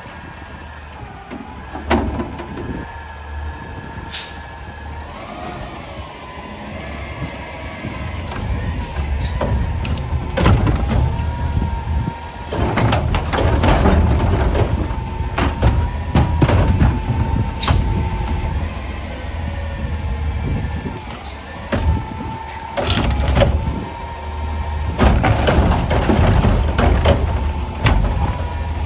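Garbage truck on its collection route: the diesel engine runs steadily under a wavering high whine. Repeated clanks, bangs and hisses, including air-brake releases, grow busier and louder from about a third of the way in.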